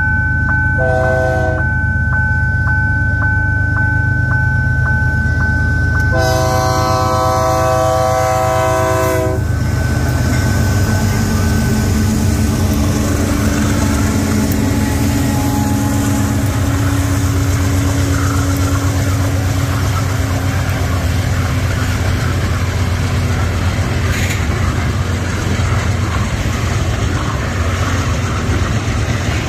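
Diesel freight locomotive horn: a short blast about a second in and a long blast from about six to nine seconds, over a level-crossing warning signal ringing about twice a second. The lead locomotives then pass close with a heavy engine rumble, followed by tank cars rolling over the rails.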